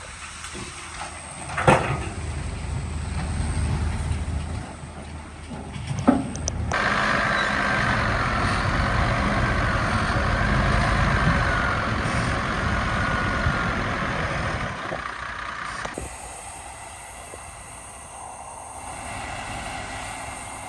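Heavy earthmoving machinery running with a low engine rumble, two sharp metallic clanks a few seconds apart, then a louder stretch with a wavering high whine that stops abruptly.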